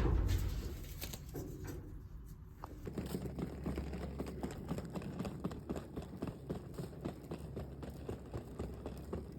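Suitcase wheels clattering fast and unevenly over a hard, uneven surface, starting about three seconds in, over a steady low hum.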